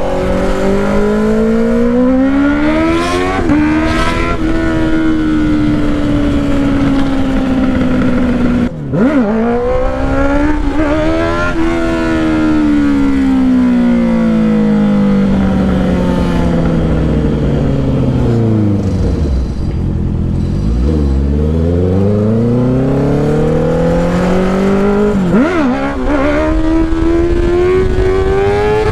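Honda CBR650R's inline-four running through a loud Black Widow exhaust with its dB killer removed. The engine revs up through the gears with quick breaks in pitch at the shifts about 4 and 9 seconds in, falls steadily to low revs around the middle, then pulls up through the gears again with another shift near the end.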